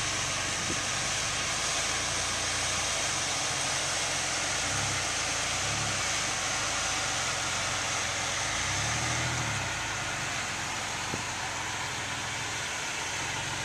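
2011 Nissan Xterra Pro-4X on the move: steady road and engine noise, with the low engine note swelling briefly a few times.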